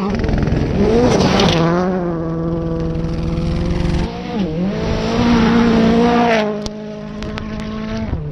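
Rally car engine at full throttle, revving high and steady, its pitch dropping briefly at two gear changes and climbing again, with a few sharp cracks near the end.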